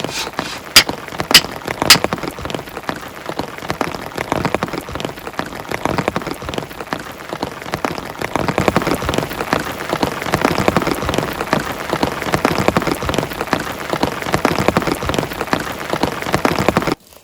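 Heavy rain falling, a dense steady spatter of drops, with three sharp, loud clicks in the first two seconds. It cuts off abruptly just before the end.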